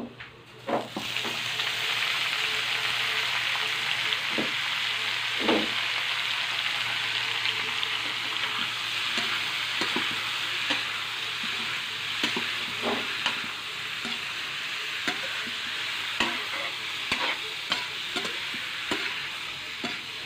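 Pork intestines sizzling in hot oil in a metal wok, with a metal utensil scraping and knocking against the pan as they are stirred. The sizzle starts suddenly about a second in and then holds steady.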